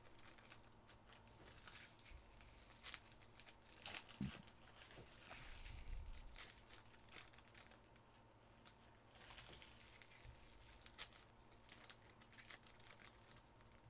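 Faint crinkling and tearing of trading-card pack wrappers, with scattered small clicks and rustles as the cards are handled.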